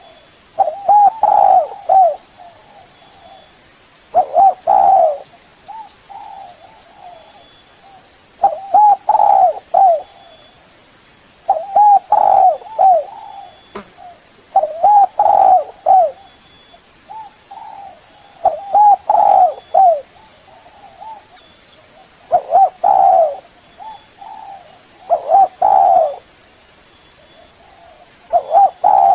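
Spotted dove (tekukur) cooing: a phrase of a few rolling coo notes lasting about a second, repeated about every three to four seconds, nine times.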